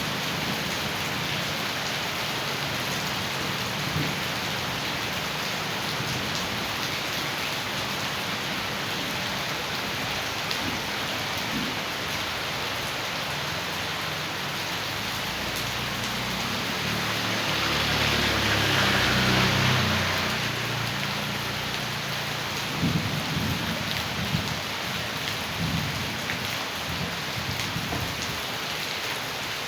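Heavy rain with rushing rainwater runoff, a steady hiss. About two-thirds of the way through it swells louder for a few seconds with a low rumble.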